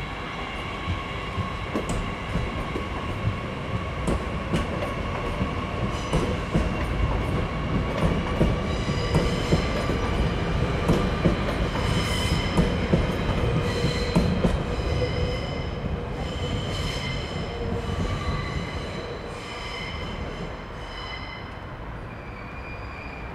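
Double-deck Transilien commuter train pulling out and running past, rumbling, with its wheels squealing in several high tones and clicking over the rail joints. It fades near the end as it goes.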